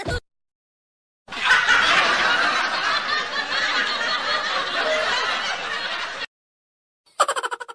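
Laughter sound effect: a group of people laughing for about five seconds, cutting off suddenly. Near the end a new effect begins, a fast pulsing sound that fades away.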